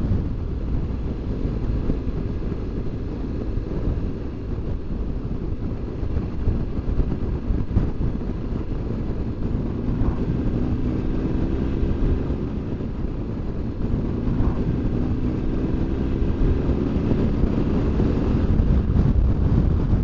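BMW R1200GS Adventure's flat-twin engine running under way, with heavy wind rumble on the microphone. In the second half the engine note rises twice.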